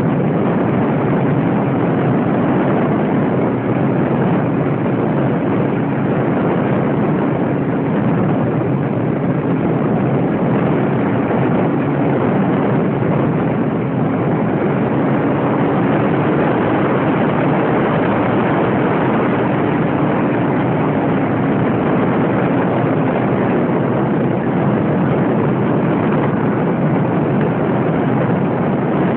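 Radio-control airplane in flight: a steady rush of air noise with a faint wavering hum of its motor and propeller.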